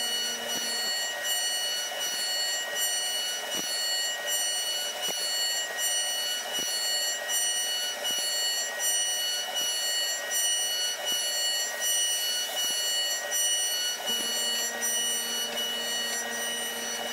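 Milling machine running while milling wood: a steady high-pitched whine, with higher tones pulsing rapidly over it and a few faint clicks.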